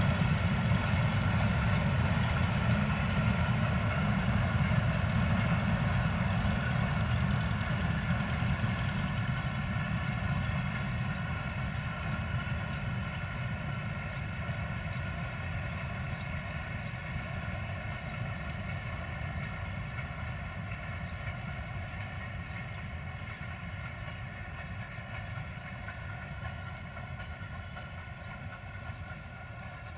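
Freight train's wagons rolling on the track, a heavy low rumble that fades steadily as the train moves away. A steady high-pitched whine of several tones runs over it.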